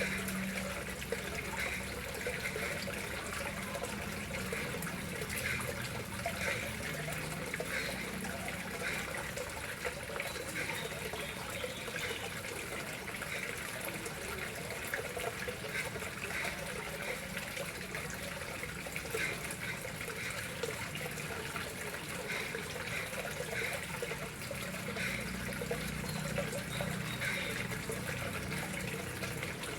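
Water flowing and trickling steadily into a koi pond, with a constant splashing patter.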